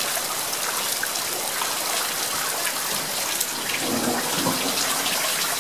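A hail storm: hailstones and heavy rain pelting down as a steady, dense hiss, with many small sharp ticks of individual stones striking.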